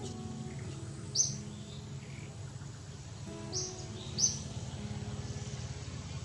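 A bird gives short, high chirps, once about a second in and twice close together near the middle. Under them run a steady low hum and faint held tones.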